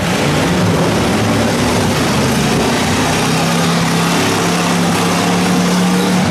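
Several demolition derby cars with eight-cylinder engines running and revving together in a steady, loud engine drone over a wash of tyre and mechanical noise.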